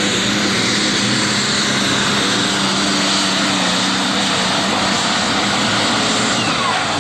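Super stock pulling tractor's turbocharged diesel engine running flat out under load as it pulls the sled, loud and steady in pitch.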